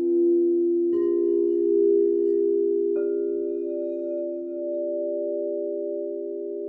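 Crystal singing bowls ringing in long, overlapping steady tones. A new bowl is struck about a second in and another about three seconds in, each adding its note to the sustained chord.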